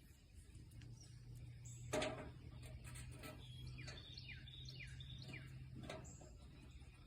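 Faint songbird chirping outdoors: repeated high notes, several of them sliding downward. A low steady hum runs under most of it, and a single sharp knock comes about two seconds in.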